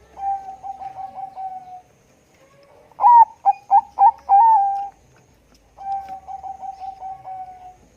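Bangkok-bred zebra dove (perkutut) cooing: a quick rolling run of soft coos, then a louder phrase of four or five sharp notes about three seconds in, then another rolling run of coos near the end.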